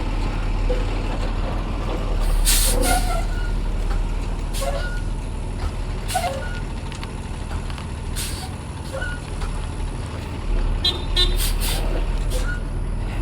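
Box truck engine running steadily as the truck drives out under its own power, with several short, sharp hisses of air and a few brief high chirps near the end.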